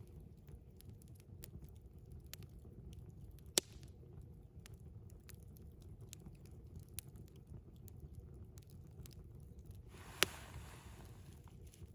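Wood campfire crackling with scattered small ticks and two sharp pops, the second followed by a brief hiss.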